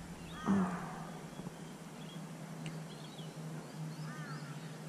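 Birds calling, repeated short arching chirps with a few higher chirps between them, and a brief knock about half a second in.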